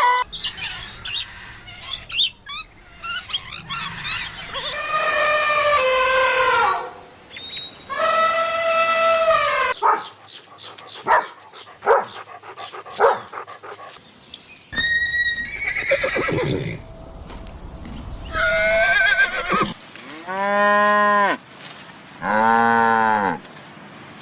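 A run of farm animal calls, one clip after another: several separate drawn-out calls, each a second or two long, with stretches of clicking and rustling between them. The last three calls are lower-pitched and arched.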